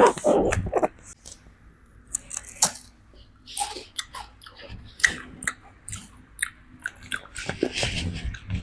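Pet monkey grooming a person up close: irregular small clicks, lip smacks and chewing sounds as it picks through skin or hair. It opens with a short, loud vocal sound.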